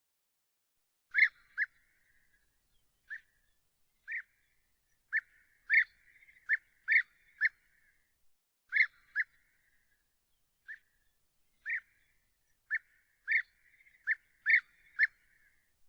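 A bird giving short, sharp calls at irregular intervals, singly or in quick pairs, about twenty in all, with a faint echo trailing some of them.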